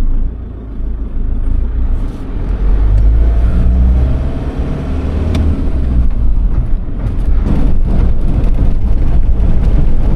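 Land Rover Defender pulling away and accelerating after its transfer case is put back into high range, the engine rising in pitch over a heavy low rumble. Road and wind noise build up later as it gathers speed.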